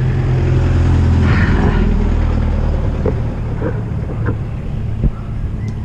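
Motor vehicle engine running close by: a steady low rumble, loudest in the first second and a half and easing after, with a few light clicks later on.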